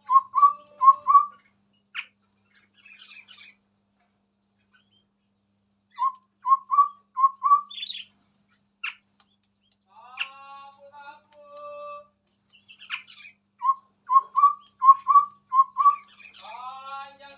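Chestnut-rumped babbler singing: three phrases of four or five quick, evenly spaced low notes, with layered chattering calls and a few sharp chips in between.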